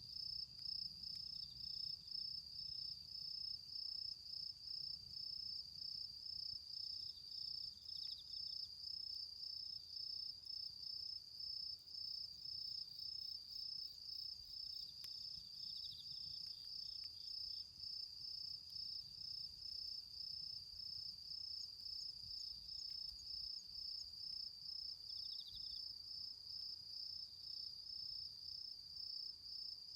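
Autumn insects singing: one steady, evenly pulsing high-pitched trill throughout, joined a few times by another insect's short, slightly lower calls.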